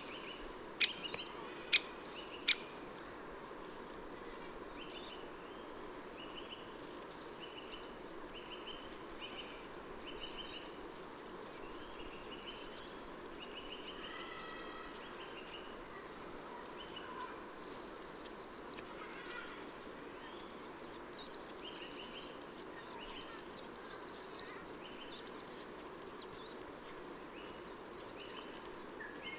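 Small garden songbirds of the tit family chirping and twittering busily, a constant stream of high, quick calls with a lower short whistled note recurring every five or six seconds. A few sharp clicks sound near the start, over a faint steady background hum.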